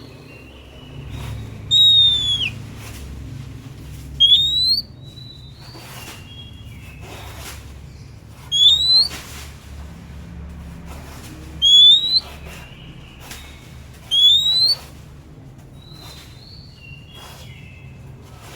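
Oriental magpie-robin (kacer) singing: five loud, clear whistled notes, most sliding upward, about every three seconds, with softer short whistles between them over a faint low hum.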